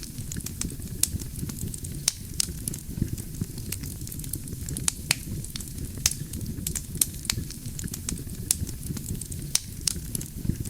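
Wood fire burning with a steady low rumble and irregular sharp crackles and pops of the burning logs, several a second.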